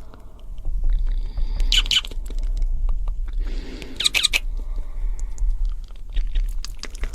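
Fast, wet ASMR mouth sounds made close to a microphone: dense clusters of clicks and smacks in three bursts about two seconds apart, over a steady low hum.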